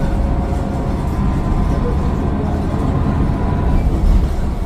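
Mercedes-Benz Citaro O530 bus's Daimler OM906 6.4-litre diesel engine running with a steady low rumble, with a faint high whine from the turbocharger above it.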